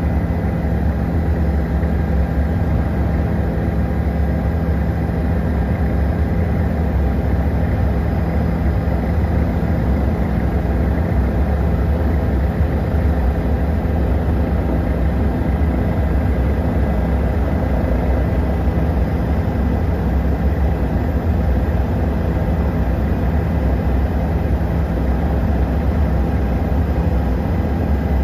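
Helicopter in flight heard from on board: a loud, steady drone of the rotor and engine, heaviest in the low end, with a few steady hum tones over it and no change throughout.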